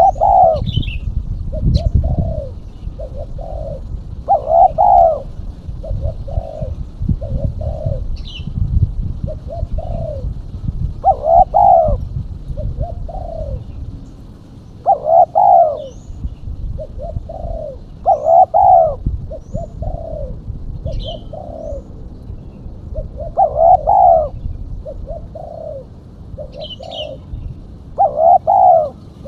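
Female spotted dove cooing over and over, each phrase a louder coo followed by a few softer coos, repeating about every three to four seconds: a lure call for trapping spotted doves. Faint high chirps of small birds and a low rumble lie underneath.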